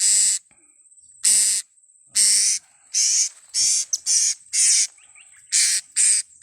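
Blue-crowned hanging parrots (serindit) calling: a run of about eight loud, shrill, high-pitched calls, each about a third of a second long, coming every half second to a second with a short pause near the middle.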